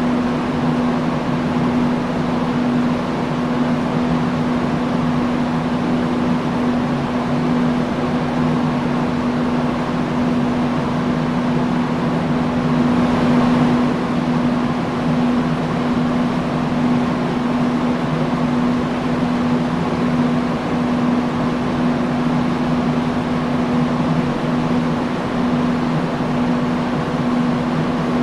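Industrial fan running steadily: an even rush of moving air over a constant low hum from the motor, swelling very slightly about halfway through.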